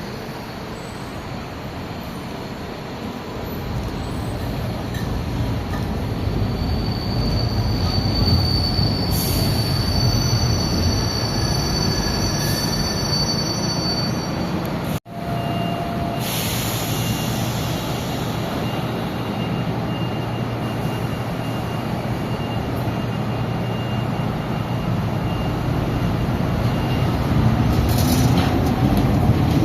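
Recife Metro South Line train running through the station, its steady rail noise swelling after a few seconds, with high-pitched wheel squeal. There is a brief break about halfway, and a rising whine near the end.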